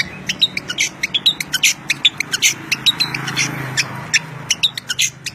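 Songbird chirping continuously in rapid, sharp, high notes, over a faint low hum.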